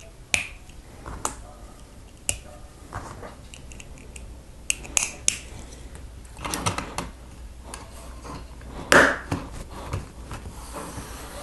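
Plastic Lego bricks clicking and snapping together as pieces are handled and pressed into place, in short, irregular clicks with a louder patch of handling about two thirds of the way through.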